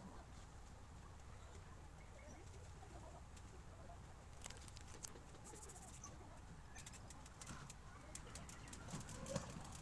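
Near silence: a low steady hum with faint scattered clicks, thickest in the last few seconds.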